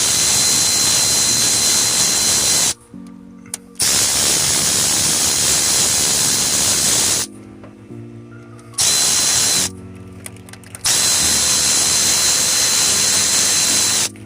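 Electric ratchet whirring in four runs of a few seconds each, with short pauses between, spinning out the already-loosened rocker arm bolts on a Chevrolet Silverado's cylinder head.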